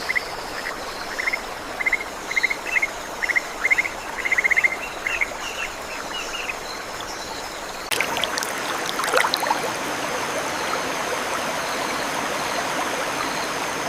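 Rainforest ambience: a steady rushing like flowing water under a high, steady insect drone, with a run of short, quick chirping calls through the first six seconds or so. The background changes about eight seconds in, with a brief crackle.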